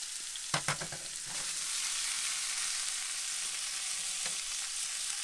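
Diced tuna frying in olive oil in a pan, a steady sizzle, with a few light clicks and knocks about half a second in and once more near the end.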